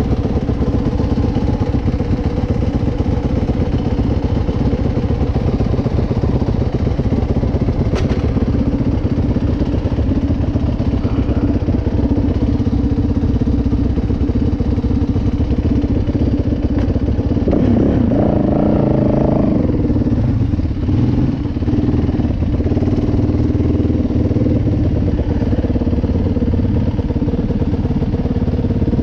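Dirt bike engine running steadily on a trail ride, the engine note shifting briefly with the throttle about two-thirds of the way through. A single sharp tick comes about eight seconds in.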